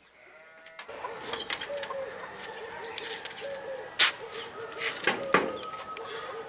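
A bird cooing over and over in short low calls, with a few sharp knocks, the loudest about four seconds in.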